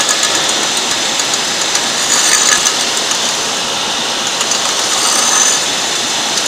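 Intermac Diamut grinding machine running steadily while reprofiling a diamond wheel, an even grinding hiss.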